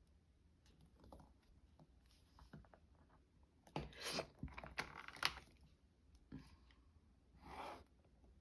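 Paper and a ruler being handled on a craft table: quiet rustling and crinkling with a few small taps and clicks, busiest about halfway through.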